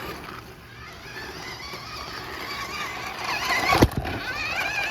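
Electric motors of RC cars whining as they drive, the pitch wavering and rising over the second half, with one sharp knock a little under four seconds in.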